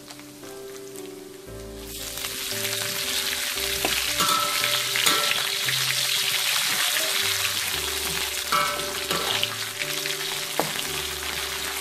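Dried anchovies frying in hot oil in a wok. About two seconds in, the sizzling jumps louder as sliced shallots, garlic, dried chillies and prawns go into the oil. A metal spatula stirs the wok with a few clicks against the pan.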